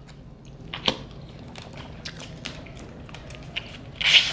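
Eating a seafood boil: shells cracking and being picked apart, with chewing in between. A sharp crack about a second in and a louder crackle near the end.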